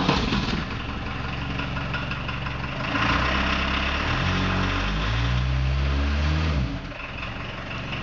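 Volkswagen Vanagon's diesel engine running just after a cold start. It idles, its speed rises and wavers from about three seconds in, then drops back to a steady idle near the end.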